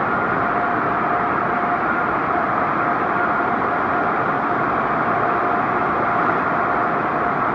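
Car wash tunnel machinery running: a loud, steady roar with a constant whine over it.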